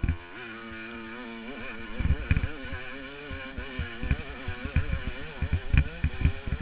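Yamaha YZ250 two-stroke dirt bike engine revving up and down as the throttle is worked, heard through a helmet-mounted camera, with repeated low thumps of wind buffeting and bumps on the microphone.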